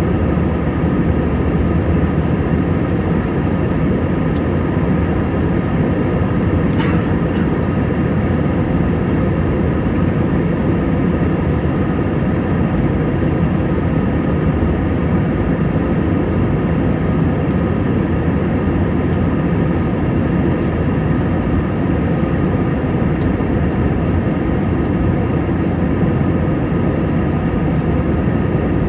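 Airbus A320 cabin noise in flight: a steady drone of the jet engines and airflow, with a constant whine of several fixed tones above it. There is a brief click about seven seconds in.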